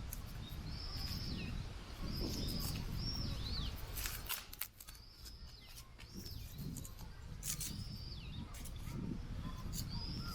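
A bird calling over and over, short high calls that arch and fall away at the end, about one a second, over a low wind rumble, with scattered sharp clicks and knocks.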